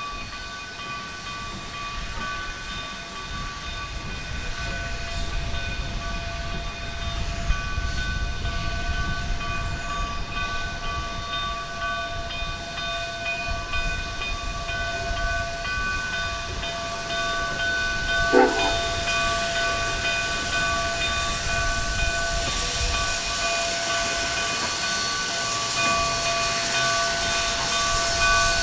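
Narrow-gauge K-36 steam locomotives working in a rail yard: steady steam hiss over a low rumble, with several steady high tones carrying on throughout. There is a brief clank about 18 seconds in, and the hiss grows louder near the end.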